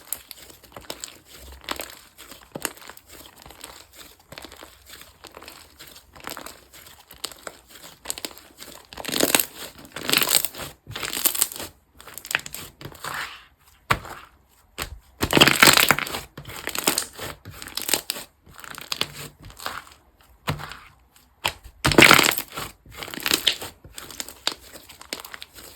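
Slime being squeezed, pressed and stretched by hand, giving irregular crackling, crinkly bursts. The bursts are louder in three spells: about a third of the way in, just past the middle, and near the end.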